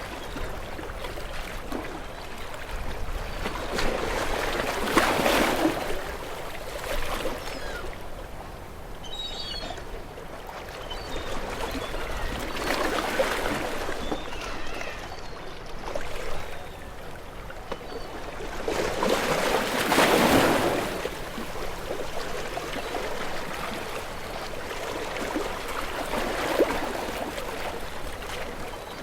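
Gentle waves washing onto a shore, one breaking about every seven seconds, with water trickling and gurgling between them.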